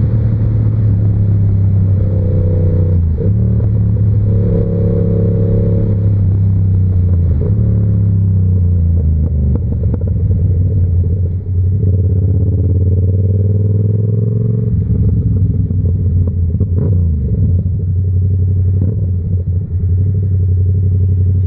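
Yamaha R7's parallel-twin engine with an SC-Project aftermarket exhaust, running under way; its note rises and falls several times with throttle and gear changes, with a few short clicks.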